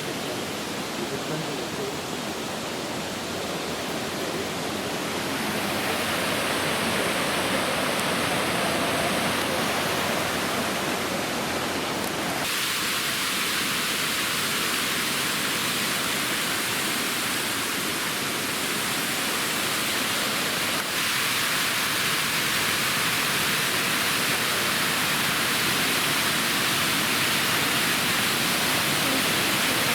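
Rushing water of a waterfall: a steady, dense hiss of falling water. It grows louder about five seconds in and shifts abruptly about twelve seconds in.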